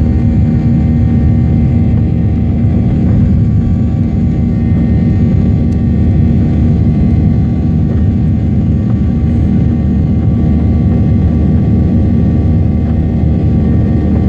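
Boeing 737-800's CFM56 jet engines running, a steady loud low rumble with a few steady tones above it, holding level without rising or falling.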